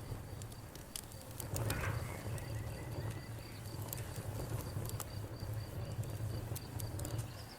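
Wood fire crackling: irregular sharp pops and snaps over a steady low rumble of the flames, with a brief soft swell about two seconds in.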